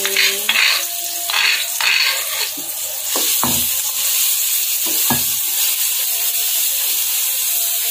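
Ground spice paste sizzling as it fries in hot oil in a wok, stirred and scraped with a metal spatula, with two short knocks partway through.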